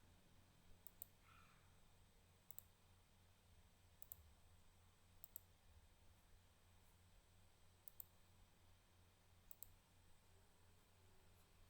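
Faint computer mouse clicks, single and in quick pairs, every second or two, over a low steady electrical hum.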